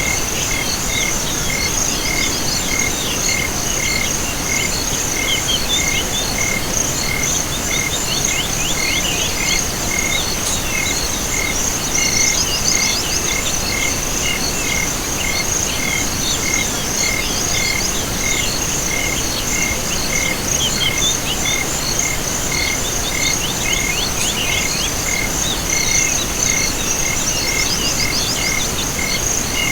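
Chorus of insects and frogs: a steady high trill, a regular chirp about twice a second, and repeated bursts of rapid rattling calls, over a faint steady hiss.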